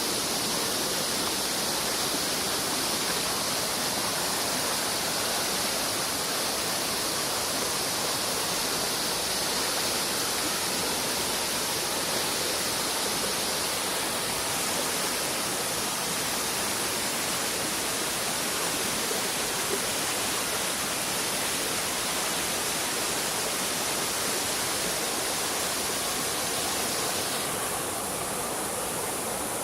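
Waterfall: a steady rush of falling water, a little softer for the last couple of seconds.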